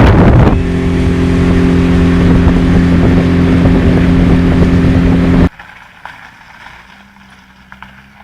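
Motorboat engine running at a steady speed under rushing wind and water noise, the wind loudest in the first half-second. A little over five seconds in, the sound cuts off abruptly to near quiet with only a faint hum left.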